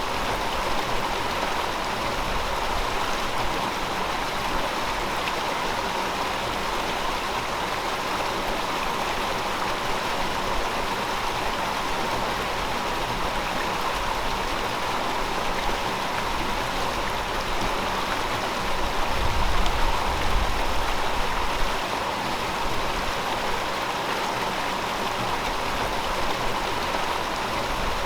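River water flowing over rocks: a steady, even rushing. A brief low rumble swells about two-thirds of the way in.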